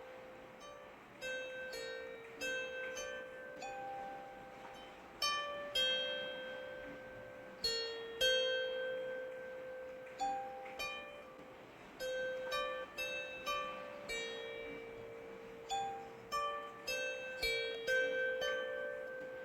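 Slow melody of plucked strings, single notes about a second apart that ring and fade, over a faint steady hiss of rain.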